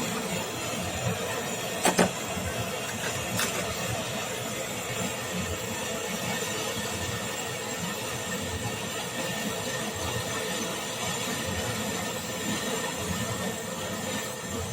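Steady hissing noise, with two sharp clicks about two seconds and three and a half seconds in.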